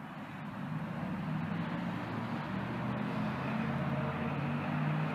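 A vehicle engine running steadily with a low hum, slowly growing louder.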